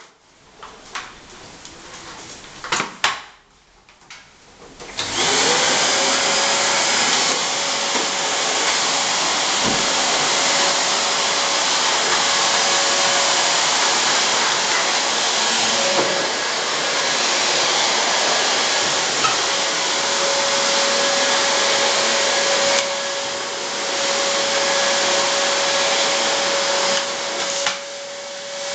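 Household vacuum cleaner switched on about five seconds in, its motor whine rising as it spins up and then running steadily. A few light knocks come before it starts.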